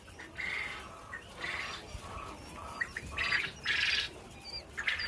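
Quail chicks calling: a string of short calls every half second to a second, with thin high chirps near the end.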